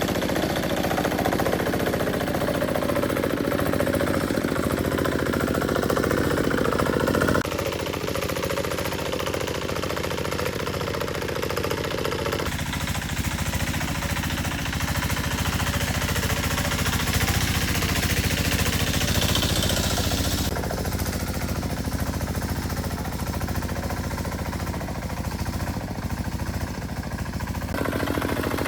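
An engine running steadily with a rapid, even knocking beat. Its tone changes abruptly three or four times.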